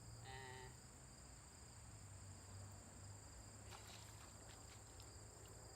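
Faint, steady high-pitched chorus of insects, like crickets, unbroken throughout, with a few faint clicks about four seconds in.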